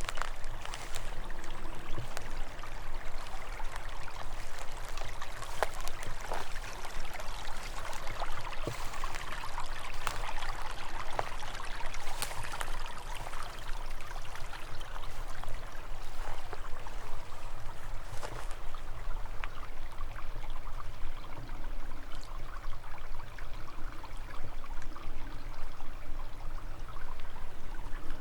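Forest stream trickling and burbling steadily over stones.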